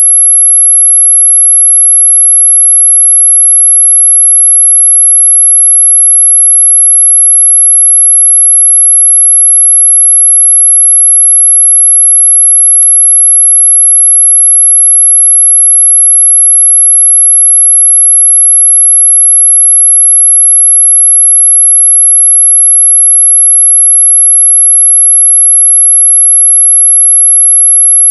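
A single very high-pitched electronic pure tone, loud and held perfectly steady: a generated 'anti-mosquito' repellent tone.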